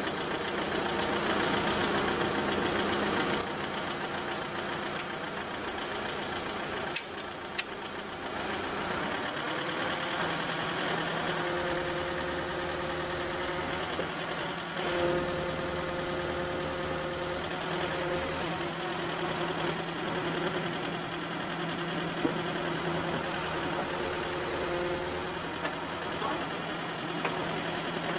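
Tractor backhoe's engine running steadily as the backhoe works. The level drops a little a few seconds in, and a steadier humming tone settles in from about ten seconds on.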